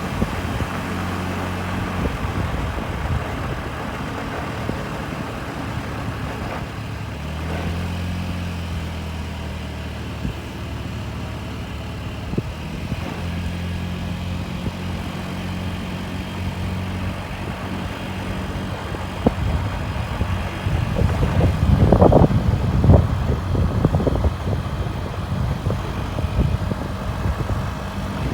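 Honda Crea Scoopy scooter's small engine running steadily while being ridden. A louder, rougher rush of noise comes about three quarters of the way through.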